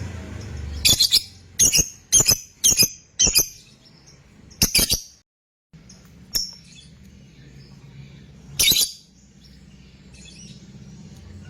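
Lovebird giving short, shrill chirping calls: a quick run of about six in the first five seconds, then two more spaced a couple of seconds apart. The sound cuts out completely for half a second about five seconds in.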